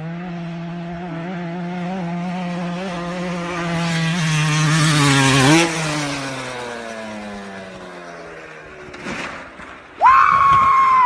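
Motorcycle engine running at steady revs, growing louder to a peak about five seconds in, then falling in pitch as it fades away. Near the end a sudden loud, high, steady-pitched cry or tone cuts in.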